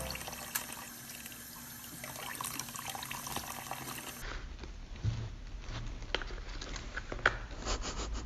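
Steady running or splashing water, like a tap into a sink. About four seconds in, the sound changes to scattered small clicks and knocks.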